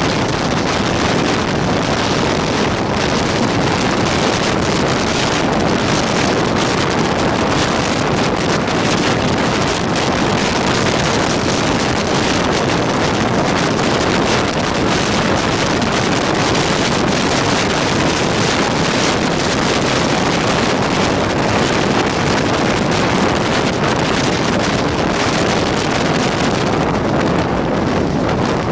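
Steady rush of wind and running noise from a passenger express train travelling at speed, heard from the open doorway of a moving coach, with wind buffeting the microphone. The hiss eases slightly near the end.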